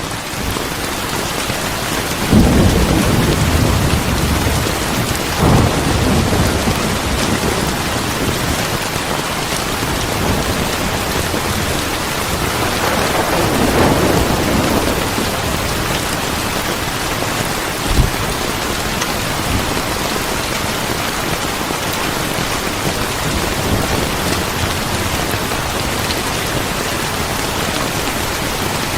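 Steady heavy rain with rolling thunder: low rumbles swell about two seconds in, again near six seconds, and longer around the middle, with a single sharp crack about 18 seconds in.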